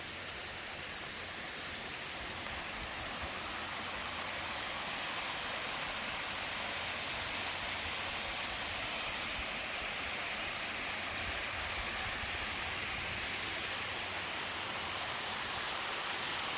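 A steady, even rushing noise with no distinct events, growing slightly louder in the first few seconds.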